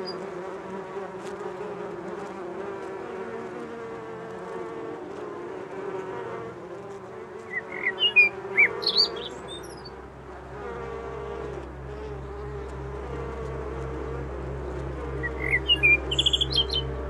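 Bees buzzing, a dense wavering hum, with short bird chirps about eight seconds in and again near the end. From about ten seconds in, a low steady hum with a soft pulse about twice a second comes in underneath.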